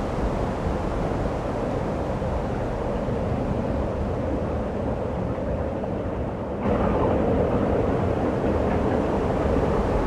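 Snowstorm wind blowing, a steady low rushing noise that gets abruptly louder about two-thirds of the way through.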